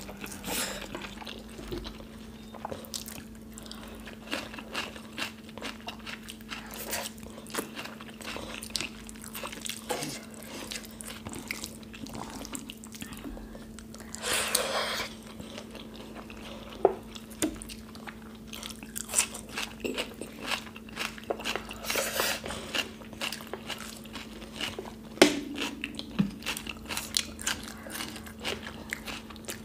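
Close-miked eating by hand: wet chewing and mouth clicks from mouthfuls of kadhi and rice, with crunchy bites, one of them into a raw cucumber slice about halfway through. A steady low hum runs underneath.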